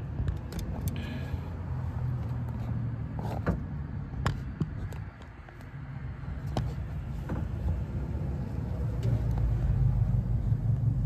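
A low steady rumble with scattered light clicks and taps from handling around the engine.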